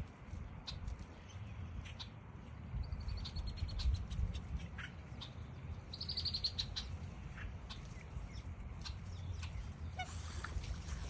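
High bird calls, with two quick runs of chattering notes about three and six seconds in, over a steady low rumble.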